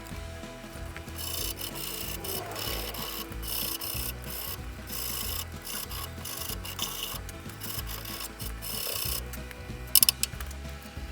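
A hand tool rasping on steel in repeated, irregular strokes, with a short loud clatter about ten seconds in.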